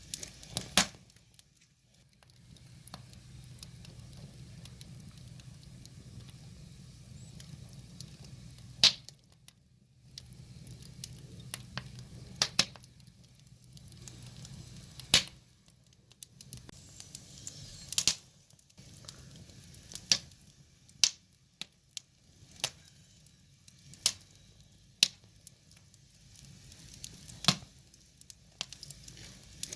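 Wood fire crackling: irregular sharp pops and snaps from the burning logs, the loudest about 9, 15 and 18 seconds in and several more in the second half, over a low steady rumble that fades out about halfway through.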